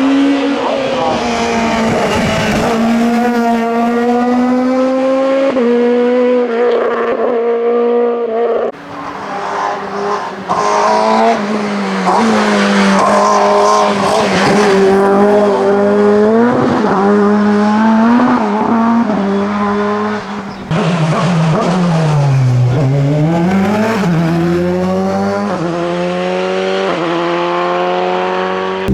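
Race car engine at full throttle on a hillclimb run: the pitch climbs and drops sharply at each upshift, many times over. About 21 seconds in it falls away as the car slows for a bend, then climbs again.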